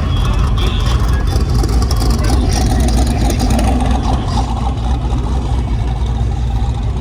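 A vehicle engine running with a steady low rumble, with faint voices in the background.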